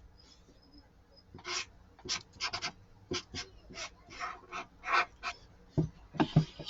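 Chisel-tip marker strokes scratching across paper while colouring, an irregular run of short quick rubs. A few duller knocks come near the end.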